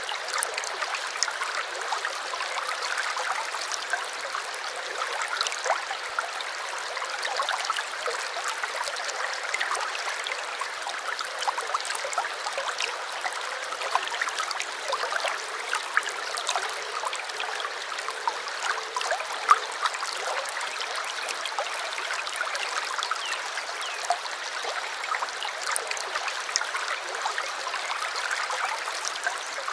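Small stream running steadily: continuous trickling and babbling water with many tiny splashes, without any low rumble.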